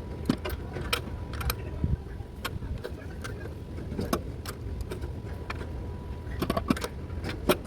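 Irregular metallic clicks and clinks of a breaker bar and deep socket working on the transmission mount bolts, in a cluster near the end, over a steady low rumble.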